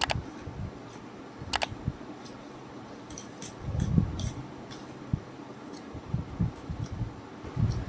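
Close-up eating sounds of egg chow mein: irregular soft chewing and wet mouth noises, with two sharp clicks of cutlery, one at the start and one about a second and a half in.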